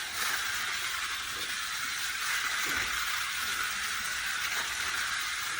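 Small battery-powered toy race cars running round a plastic track, a steady hissing whir with faint knocks.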